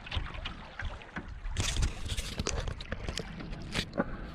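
Canoe being paddled on a moving river: paddle splashes and a few sharp knocks over a constant low rumble of wind on the microphone.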